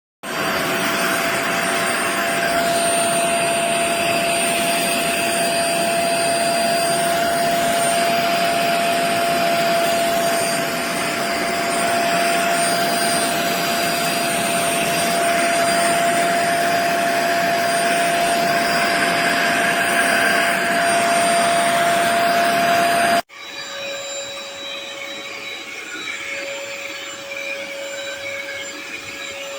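HAUSHOF StainZapper 400 W upholstery spot cleaner's suction motor running with a steady whine. It starts suddenly. About 23 seconds in it cuts off, and a quieter running sound with a lower whine follows.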